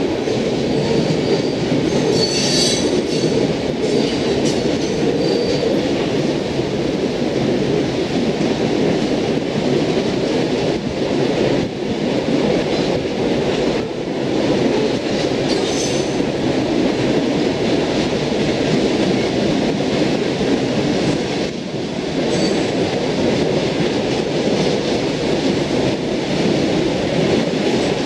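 Freight cars rolling past with a steady rumble of steel wheels on rail. Brief high-pitched wheel squeals come a couple of seconds in, again around 5 s, and twice more later on.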